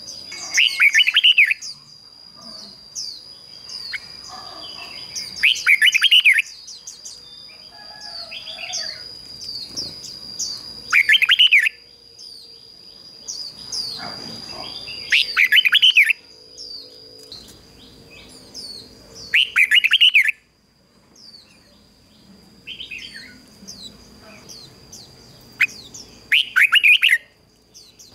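Red-whiskered bulbul singing short, loud, warbled phrases, one roughly every four to five seconds, as a decoy bird's song to draw in wild bulbuls. A continuous thin high tone with small chirps runs underneath.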